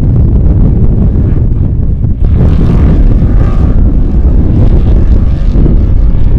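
Strong wind buffeting the microphone, with an off-road race vehicle's engine passing by from about two to four seconds in.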